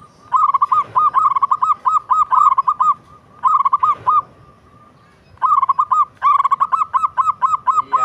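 Zebra dove (perkutut) cooing: quick runs of short, arched coo notes, about four a second, in three bursts separated by short pauses.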